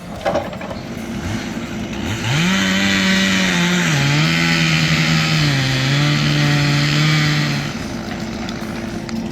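Chainsaw revved up to full throttle and cutting, its engine note dipping twice as the chain bites into the wood, then easing off near the end.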